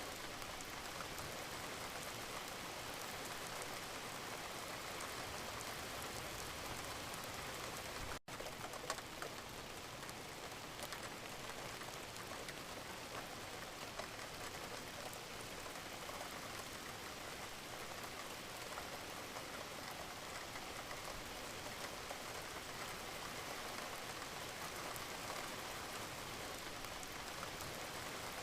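Steady gentle rain, an even hiss of raindrops, broken by a split-second gap about eight seconds in.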